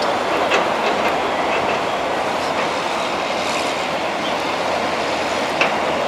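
Intercity passenger trains running on the track: a steady wheel-on-rail noise with a few sharp clicks, the loudest near the end.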